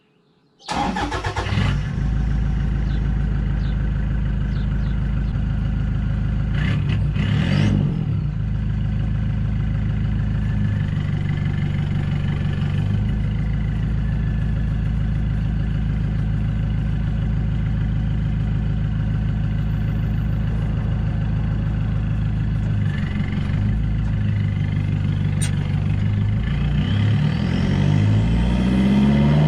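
Toyota Hilux turbo diesel running through a straight exhaust with the muffler cut out, heard from the back of the moving ute. Its drone holds steady, changes pitch a few times as it shifts, and climbs near the end as it accelerates.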